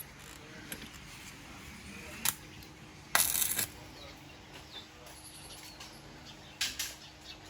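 Metal pieces clinking against metal: one sharp clink about two seconds in, a louder half-second rattle a little after three seconds, and two or three more clinks near the end, over a faint steady hum.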